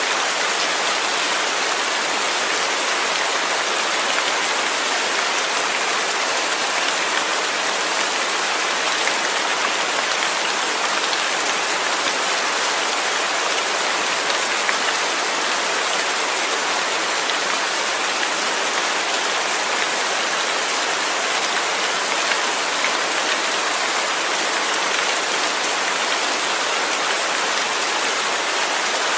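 Steady rain falling, an even hiss of countless drops with no change or let-up.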